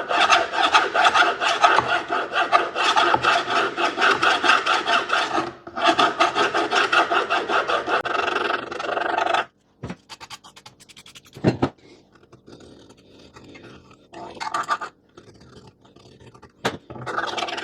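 A file rasping back and forth in quick strokes, clearing old leather and hard hide glue out of the wooden windway of an organ bellows pump board. The filing stops about halfway through, leaving a few faint scrapes and two sharp knocks, and starts again just before the end.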